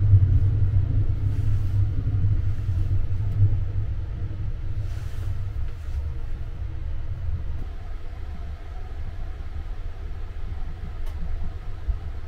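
Low rumble of the Sunrise Izumo sleeper train running, heard from inside a sleeping compartment; louder for the first few seconds, then steady.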